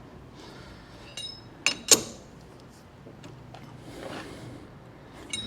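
Steel parts clinking and knocking against a lathe's three-jaw chuck as a workpiece is set in and clamped: a ringing metallic clink about a second in, two sharp knocks just after, and another clink near the end.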